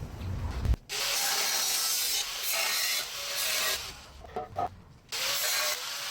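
Angle grinder with a nearly worn-out cut-off disc cutting through the exhaust pipe to take the mufflers off. A steady cutting hiss starts about a second in, breaks off briefly twice, pauses for about a second past the middle, and resumes near the end.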